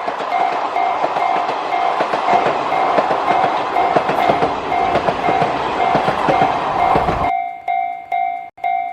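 Japanese railroad crossing alarm dinging about twice a second as a train passes through, the train's loud rushing noise full of clacks. The train noise cuts off suddenly about seven seconds in, leaving the crossing bell ringing on alone.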